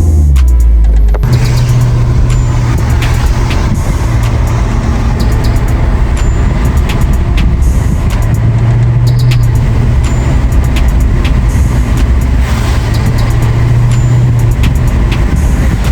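Maserati GranTurismo's V8 engine running on the move, with road noise; a loud, steady drone that swells and eases a few times as the throttle changes.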